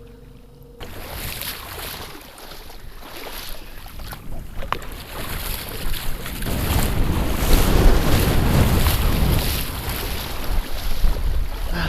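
Wind buffeting the microphone over moving water, a rough rumbling noise that starts abruptly about a second in and grows louder through the second half, with one sharp click partway through.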